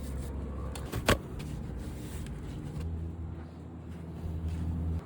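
Electric pressure washer running, its motor humming steadily and growing louder about three seconds in, with a sharp click about a second in.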